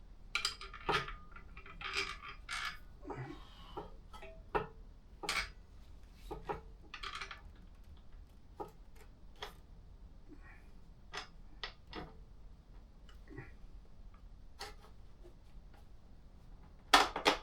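Small metal hardware and exhaust mounting parts being handled: irregular clicks, clinks and light knocks, with a couple of louder knocks near the end.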